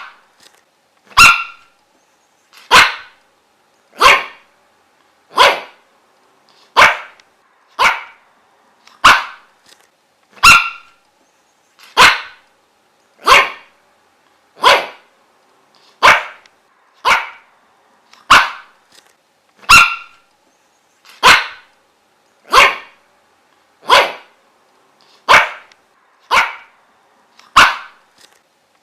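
A dog barking single sharp barks in a steady, even rhythm, about one bark every second and a quarter with short gaps between.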